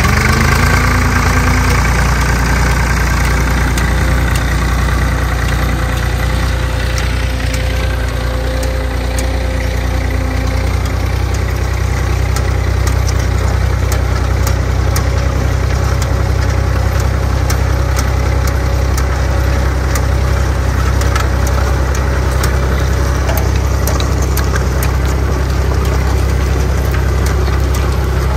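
Zetor 3011 tractor's two-cylinder diesel engine running at a steady speed, its revs rising briefly at the start, with a light regular ticking over the engine note.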